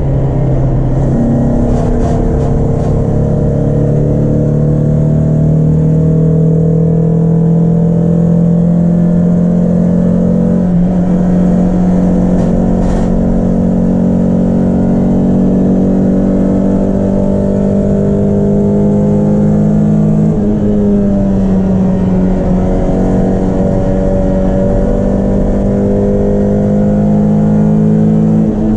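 Peugeot 306 S16's 2.0-litre 16-valve four-cylinder engine pulling hard at high revs on track, its pitch climbing slowly. The pitch dips briefly about two-thirds in, climbs again, and falls away near the end.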